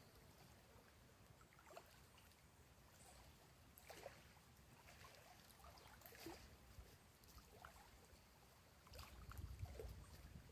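Near silence: faint outdoor ambience with a few scattered soft ticks and a slight low rumble near the end.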